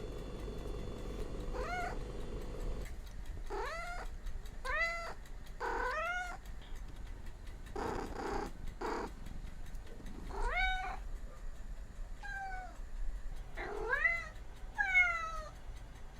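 A cat meowing over and over, about eight short mews that rise and fall in pitch, with a breathy noise a little past the middle.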